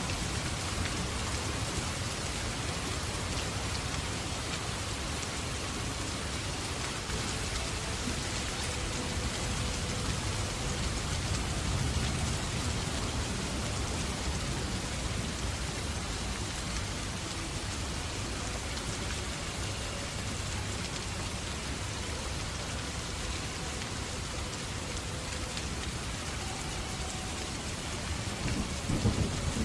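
Steady rain falling on a surface, with a low rumble swelling and fading in the middle. A brief louder rumble of thunder comes just before the end.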